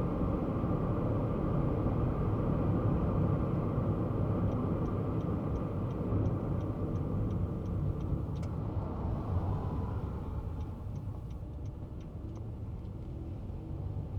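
Kei car driving, heard from inside the cabin: a steady low engine and road rumble that eases off somewhat after about ten seconds. Two runs of light, evenly spaced ticks, a few a second, come and go over it.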